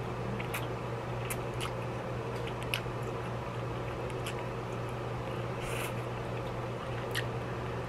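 A person eating noodles: short wet mouth clicks and slurps scattered about once a second as strands are sucked in and chewed, with a slightly longer slurp about six seconds in, over a steady low hum.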